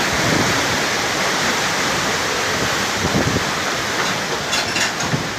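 Hurricane-force wind howling in a steady, loud rush.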